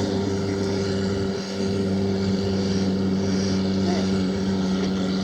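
Lamborghini engine idling steadily with an even low hum.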